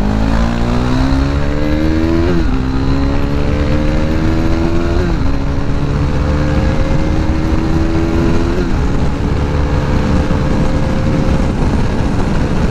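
KTM RC 390 single-cylinder engine accelerating hard through the gears: its pitch climbs, drops sharply at three upshifts about two to three seconds apart, then holds a high, nearly steady pitch near the end.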